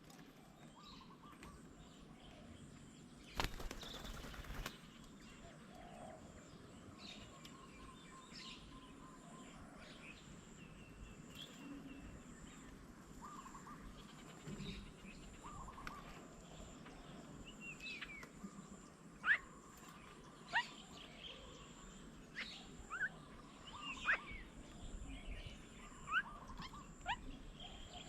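Small birds calling around a garden bird table: scattered short high chirps and quick falling whistled notes, sparse at first and coming more often in the second half. A brief rustling burst sounds about three and a half seconds in.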